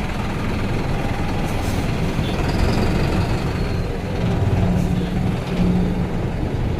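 Steady road noise of a moving vehicle: tyre and engine rumble. A low engine drone swells about halfway through and fades again.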